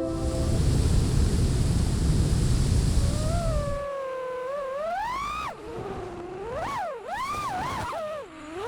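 Wind buffeting the microphone as a low rush for the first few seconds, then a 5-inch FPV freestyle quadcopter's brushless motors whining, the pitch sweeping up and down sharply again and again with the throttle.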